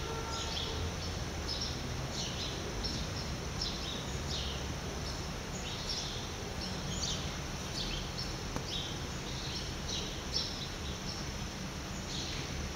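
Small birds chirping: many short, high chirps, about two a second, over a steady low rumble.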